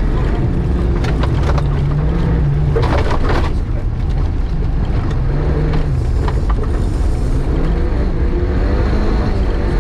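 VAZ 2105 rally car's four-cylinder engine pulling hard, heard from inside the cabin, its pitch climbing and dropping several times through gear changes and lifts. Tyre and gravel noise runs underneath, with stones clattering against the car.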